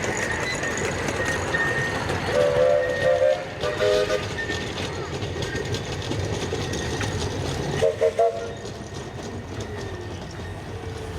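A miniature 15-inch gauge locomotive's chord whistle sounds a few short blasts about two to four seconds in, then two quick blasts about eight seconds in, over the steady rumble of the train running.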